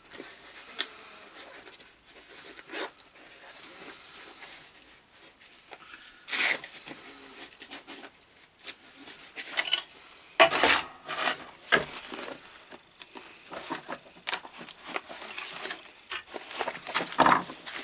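Workbench handling sounds: a couple of stretches of rustling hiss early on, then a scatter of clicks and knocks as tools and small parts are picked up and handled, the loudest knocks about six and ten seconds in.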